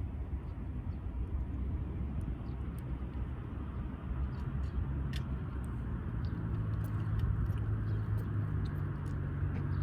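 Faint, scattered crackling ticks of a wood fire burning in a Uniflame firewood grill, over a steady low rumble; a low engine hum grows louder about six seconds in.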